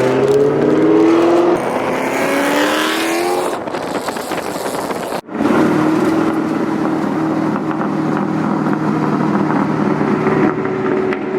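Twin-turbo 2003 Mustang Cobra V8 accelerating hard, its pitch climbing and dropping back twice as it shifts up through the gears. After a sudden brief break about five seconds in, it settles into a steady drone at cruising speed.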